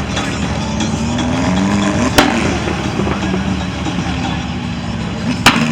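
A car engine running loud, its pitch rising about two seconds in. Two sharp cracks cut through it, one about two seconds in and one near the end.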